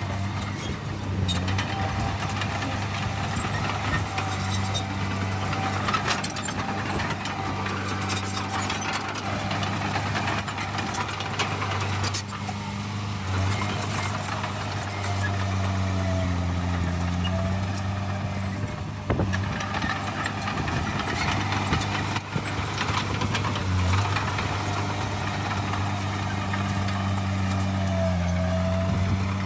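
Heavy diesel engine of earthmoving machinery running steadily, its note dipping briefly as it takes load twice, with scattered metallic clanks.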